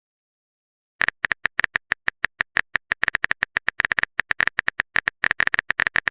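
Rapid, irregular clicks of a typing sound effect, about ten keystrokes a second, starting about a second in.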